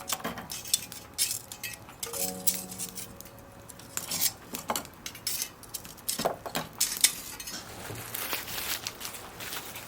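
Irregular light clinks and sharp clicks, like utensils or tableware being handled, with a few brief stepped tones about two seconds in.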